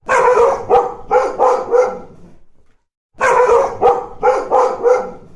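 A dog barking in two quick runs of about six barks each, with a short pause between them.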